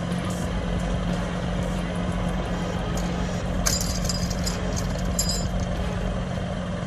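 A heavy machine's engine running steadily with a constant hum, with two short hissing bursts a little after the middle.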